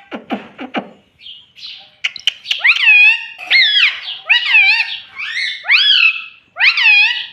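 Pet Indian ringneck parrot giving a run of five or six loud calls, each rising then falling in pitch, coming in quick succession from about two and a half seconds in. A few short low sounds come in the first second.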